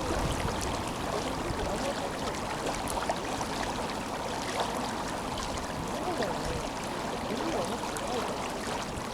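Tenryū River water rushing steadily in an even, continuous flow.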